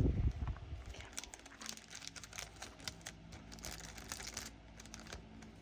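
Small plastic bags of diamond-painting resin drills crinkling as they are handled and emptied, with light irregular clicks of the drills.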